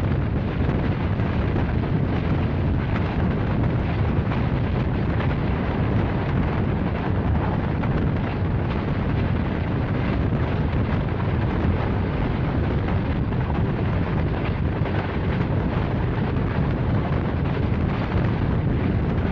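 Steady rumble of a moving passenger train, with no change in level.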